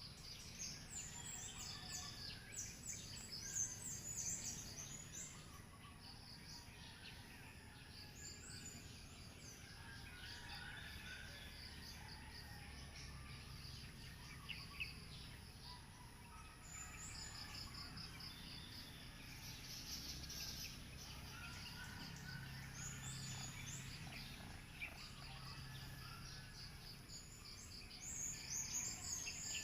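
Birds chirping and calling, with bursts of quick high trills that come and go, over a faint steady low hum.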